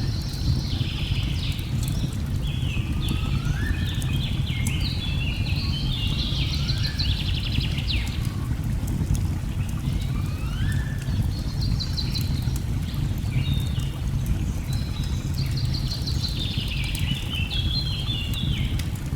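A steady low rush of falling water under birdsong, with repeated rising whistles and fast trills, and scattered fire crackles.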